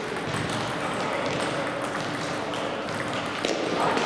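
Table tennis balls clicking against tables and rackets, the strokes of several rallies overlapping at irregular intervals over a steady hall background.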